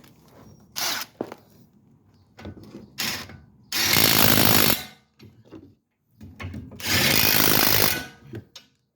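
Impact wrench running in two bursts of about a second each, with a few short blips before them, tightening the brake caliper bracket bolts.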